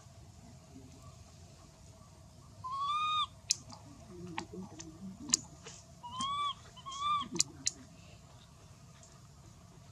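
A baby monkey giving three short cries, each rising then falling in pitch, spaced about three seconds and then one second apart. A few sharp clicks fall between the cries.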